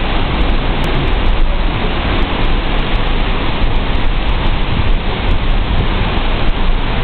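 Hurricane-force wind and driving rain: a steady, loud rush of noise with a heavy low rumble of wind buffeting the microphone.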